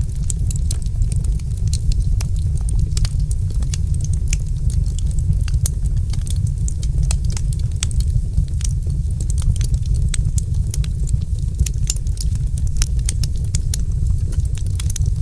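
Wood fire crackling in a fireplace: many small, irregular sharp pops and snaps over a steady low rumble.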